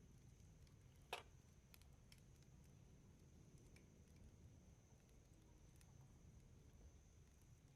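Wood fire crackling faintly, with scattered soft ticks and one sharper pop about a second in.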